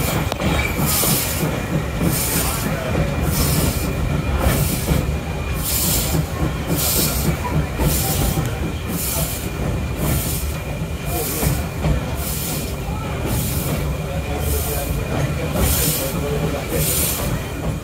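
Heritage passenger train running along the line, heard on board: a steady rumble with an even, rhythmic hissing beat a little more than once a second and a faint steady high-pitched tone over it.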